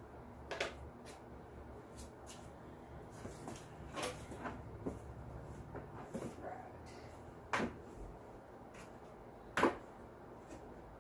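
Scattered knocks and clicks of tools and cases being handled while fetching the compression tester kit, over a low steady hum. The sharpest knocks come about half a second in, near the middle, and twice in the second half.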